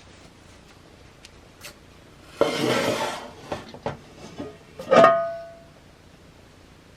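Metal cookware being handled: a short scraping rustle, a few light knocks, then a sharp metal clank about five seconds in that rings briefly.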